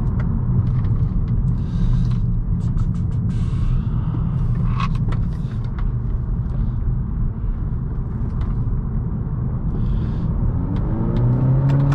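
2018 Honda Accord 1.5T's turbocharged four-cylinder engine and road noise making a steady low drone, the engine pitch rising near the end as the car accelerates. Scattered faint clicks throughout.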